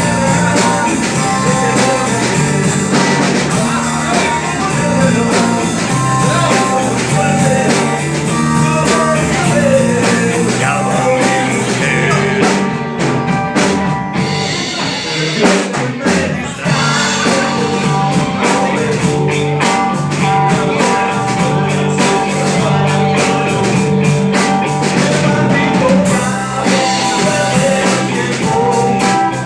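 Live rhythm and blues band playing, with drum kit and guitar under a harmonica.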